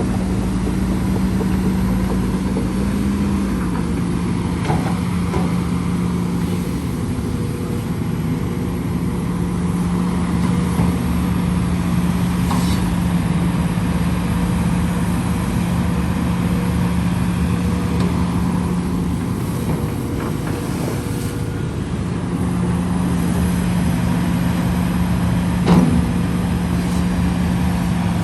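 Engine of heavy earthmoving machinery running steadily, its pitch dropping slightly about three seconds in, with a few brief knocks, the sharpest near the end.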